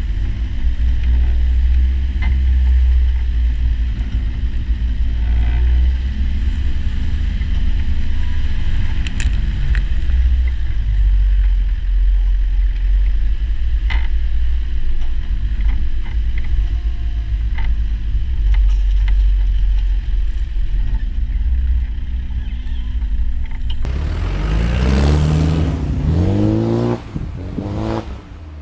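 Land Rover Defender 90's engine running steadily under way, with scattered clunks and rattles. Near the end the revs rise and fall several times, then the sound drops away.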